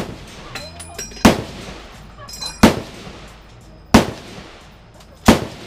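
Rifle firing four shots at a shooting range, evenly spaced about a second and a half apart, each shot echoing briefly.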